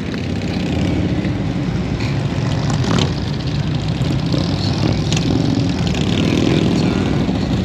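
Motorcycle engines running, growing louder over the first second and then holding steady.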